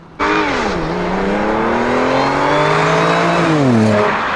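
Audi coupé's engine accelerating hard, cutting in suddenly: its pitch dips, then climbs steadily for about three seconds, and falls away near the end.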